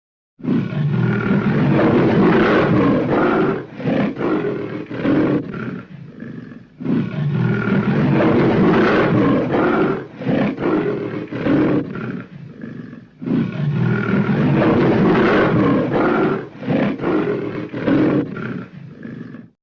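Mixed big-cat roar and snarl sound effect, a lion roar blended with growls, played three times over in near-identical loops of about six seconds each.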